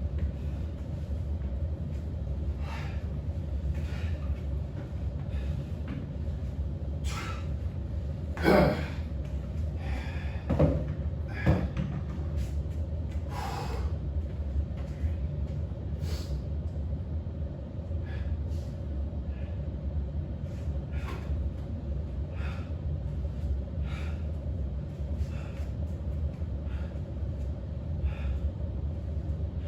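A person breathing hard during exercise: short, forceful exhales every second or two, with a few louder voiced exhales around the middle, over a steady low hum.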